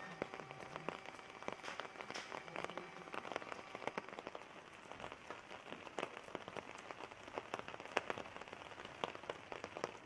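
Rain pattering on a hard surface: a dense, irregular run of ticks and taps over a steady hiss.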